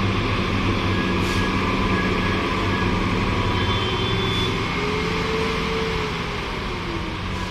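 Heavy 14-wheeler truck's diesel engine running steadily over road noise, its note sagging a little in the last couple of seconds.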